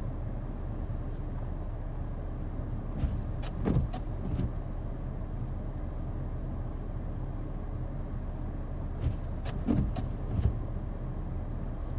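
A vehicle engine idling steadily. Two clusters of short clunks and creaks come through, about three to four seconds in and again about nine to ten seconds in.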